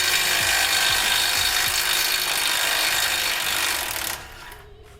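Handheld power tool running steadily as it spins out the bolt holding the brake hose bracket to the strut, stopping about four seconds in.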